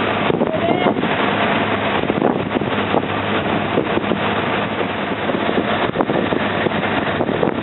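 A river slow boat's engine running steadily, with a low hum under a loud rush of wind on the microphone.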